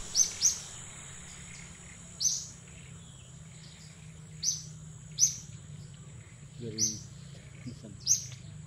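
Birds chirping: about eight short, sharp, high-pitched notes at irregular intervals, over a steady high insect whine.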